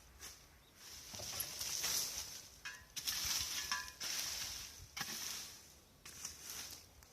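Dry leaves and branches rustling and crackling in several irregular bursts with short pauses between them.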